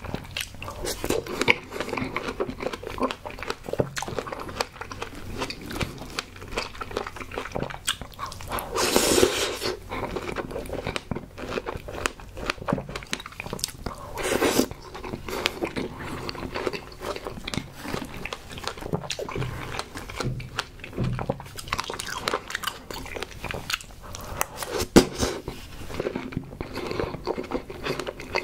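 Mouth sounds of a person biting and chewing fresh strawberries with whipped cream: a continuous run of small smacks and clicks, with a couple of louder bites, one about fourteen seconds in.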